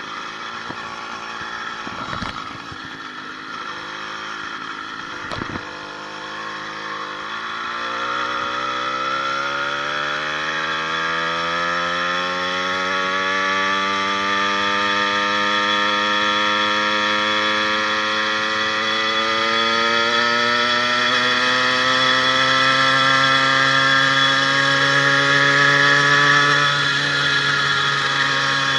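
80cc two-stroke motorized-bicycle engine running as the bike gets under way. Its pitch climbs steadily for about fifteen seconds, then holds at cruising speed. A new needle bearing is fitted on the wrist pin, and there is no ping, ping from the piston pin. Two sharp knocks come in the first several seconds.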